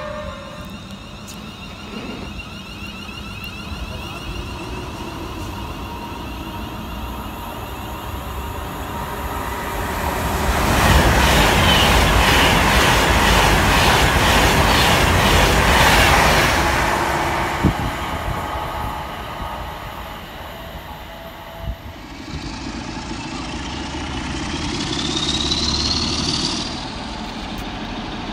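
A Class 390 Pendolino electric train runs past the platform, loud for several seconds, a rush of wheel and air noise with a rapid, even wheel clatter. Then a Class 47 diesel locomotive approaches, its engine rumbling under a rising whine that grows louder.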